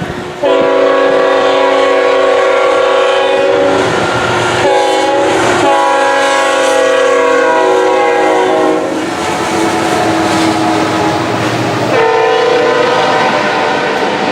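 Multi-chime air horn of a BNSF GE Evolution-series (GEVO) locomotive sounding in several long blasts as the freight train passes. Between the blasts the train's wheels rumble and clatter on the rails.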